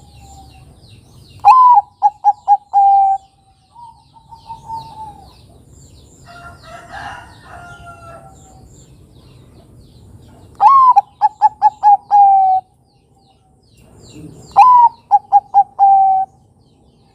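Bangkok-type zebra dove (perkutut) cooing its song three times, each phrase a drooping opening note, then a quick run of short notes, then a held final note. Fainter cooing comes between the phrases.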